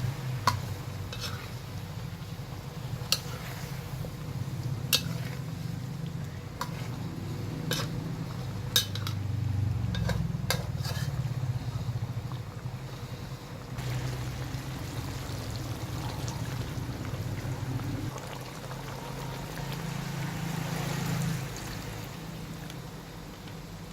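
A metal spoon or ladle clinks against a pot now and then while curry is stirred, over a steady low rumble. The clinks are sharp and come at uneven intervals, mostly in the first half.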